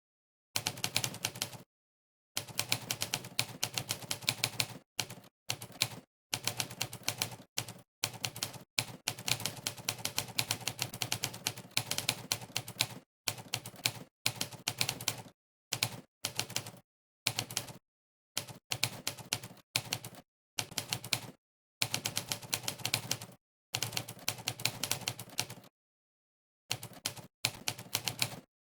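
Monkeytype's typewriter typing sound effect: a sampled typewriter key clack for each keystroke, in fast runs of typing broken by short pauses of dead silence.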